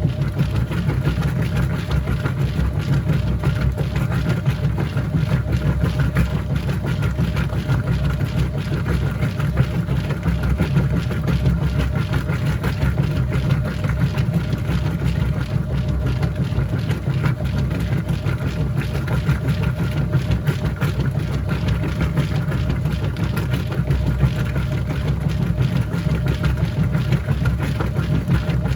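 Whirlpool top-load washing machine running mid-cycle: a steady, low mechanical hum with faint steady tones above it.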